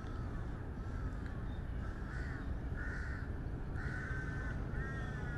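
A bird giving a series of harsh calls, about one a second, louder from about two seconds in.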